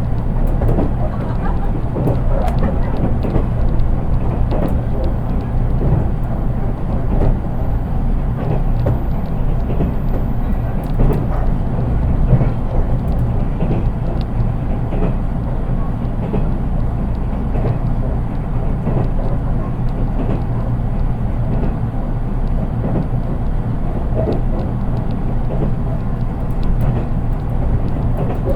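Running noise inside an unpowered JR East 183 series driving trailer car (KuHa 183) under way: a steady low wheel-on-rail rumble with small irregular clicks and knocks. There is no traction-motor sound.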